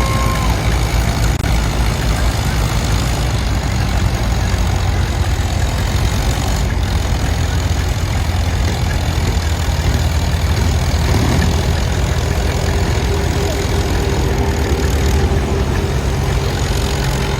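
Antique farm tractor engine running steadily with a low, even drone. About two-thirds of the way in, a steady higher whine joins it.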